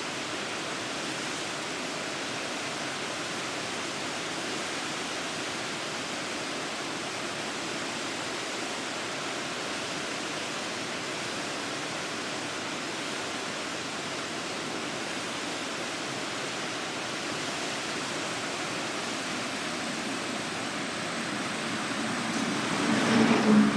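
Steady rushing noise of floodwater pouring through the Funagira Dam's open gates on the Tenryū River, released at about 4000 tonnes a second. Near the end a vehicle passes close by, its engine rising over the water noise and then fading.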